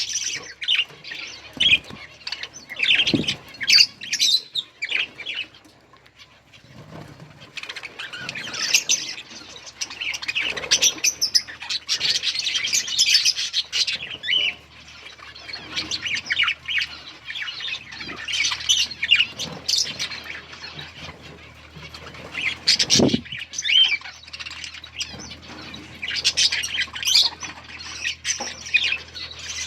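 A flock of budgerigars chattering, many overlapping chirps and squawks, with a lull about six seconds in. Occasional thumps and wing-flutters, the strongest one about 23 seconds in.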